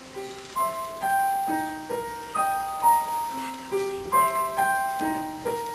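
Piano playing a slow, repeating pattern of broken chords, one note at a time.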